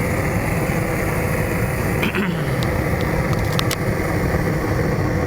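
Weed burner torch firing a fibre-lined raku kiln: a steady, even rushing noise of the burner flame with no change in level. A few faint ticks midway.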